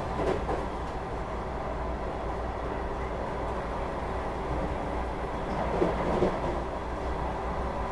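Running noise of a Vande Bharat train heard from inside a passenger coach: a steady rumble of wheels on track over a low hum, with two short louder knocks about six seconds in.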